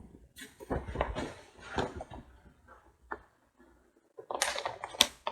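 Paper rustling and handling noises as the pages of a picture book are turned, in several short bursts, with a sharp click about five seconds in.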